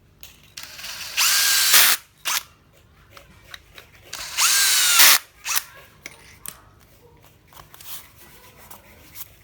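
Snap-on 18V cordless impact wrench run twice in short bursts of about a second each, the motor whine rising in pitch as it spins up and then holding steady. Small clicks and knocks come between and after the runs.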